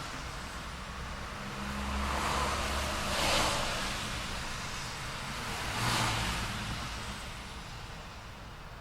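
City road traffic: cars passing one after another, their engine and tyre noise swelling and fading. Two louder passes come about three and six seconds in, and the traffic dies down toward the end.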